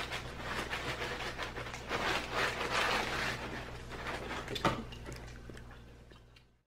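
Eating noises close to the microphone, rustly chewing and crackle, over a low steady hum. There is a single sharper knock about two-thirds of the way through, and the sound fades to near silence at the end.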